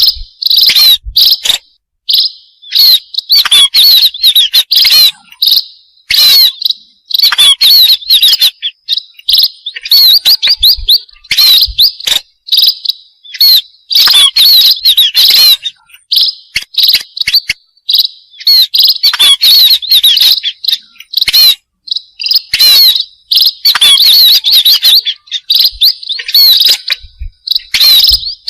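Burung pipit (small munia finches) chirping in rapid, high twittering bursts of a second or two, with short pauses between.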